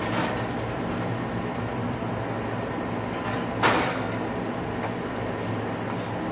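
Steady low mechanical hum of a room fan or air conditioner, with a brief scraping, rushing noise about three and a half seconds in.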